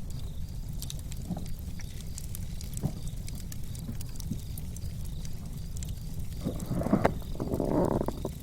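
Wood fire crackling, with scattered sharp pops over a low steady rumble. Near the end comes a louder rustling noise lasting about two seconds.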